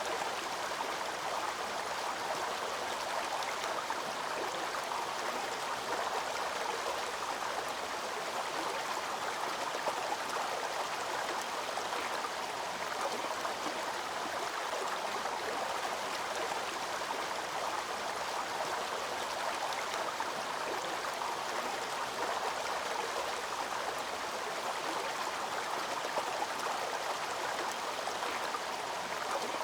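Waterfall cascade water rushing in a steady, even wash of sound with no breaks.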